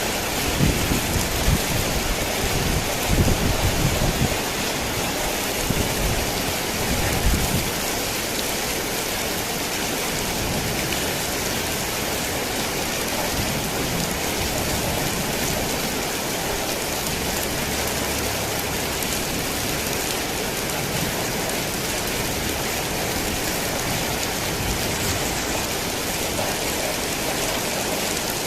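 Heavy rain falling steadily on a tin roof. Low thunder rumbles beneath it for about the first seven seconds, then dies away, leaving only the rain.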